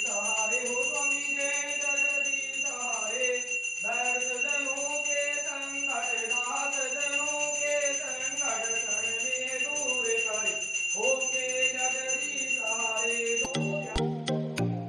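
A voice singing a slow melody over a continuous high, steady ringing. About a second and a half before the end it cuts to background music with a regular beat.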